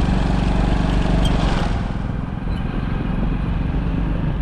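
Motorcycle engine running steadily while riding, under a broad rushing noise that eases about two seconds in.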